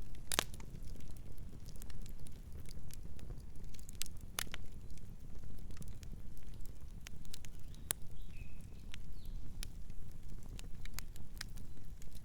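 Campfire crackling: irregular sharp pops and snaps of burning wood over a low steady rumble, with louder pops about half a second in, near four and a half seconds, and around eight seconds.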